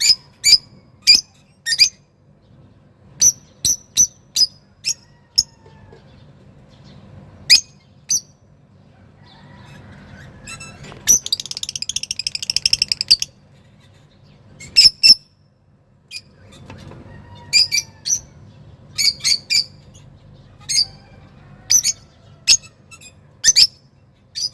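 An excited Java sparrow giving sharp, high single chip calls at irregular intervals, with a rapid rattling run of notes lasting about two seconds near the middle. A faint low hum sits underneath.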